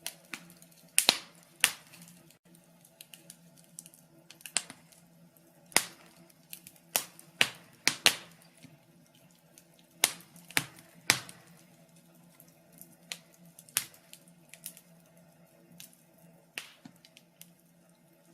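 Wood fire crackling, with irregular sharp pops and snaps, a few loud ones and many small ones, over a faint low steady hum.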